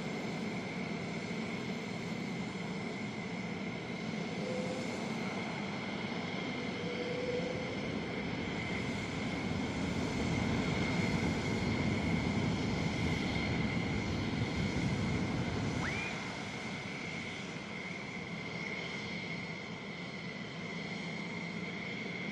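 F-16 fighter jet's engine running: a steady high whine over a broad rush, growing louder through the middle and easing back down a few seconds later.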